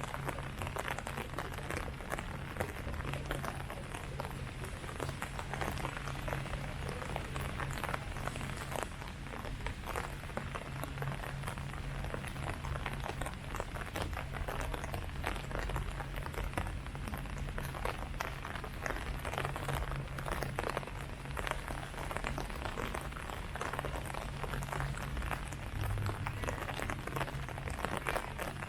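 Steady rain falling on leaves: a dense, even patter of drops, with a low steady hum underneath.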